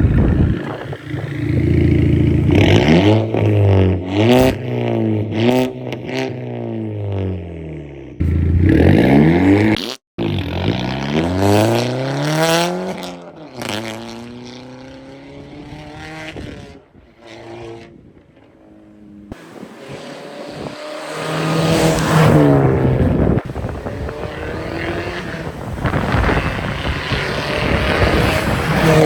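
Audi A3 8P with a straight-piped exhaust (muffler and resonator deleted, aftermarket downpipe), driven hard. The exhaust note climbs in pitch under acceleration and falls back off the throttle, several times over, and cuts off abruptly twice as one driving clip gives way to the next.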